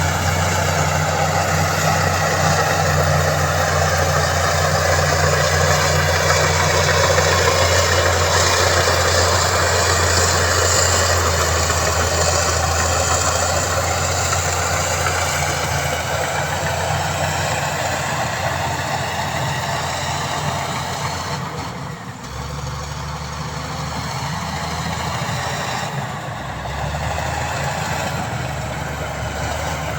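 Diesel engine of heavy earthmoving machinery running steadily, easing off about two-thirds of the way through and then picking up again.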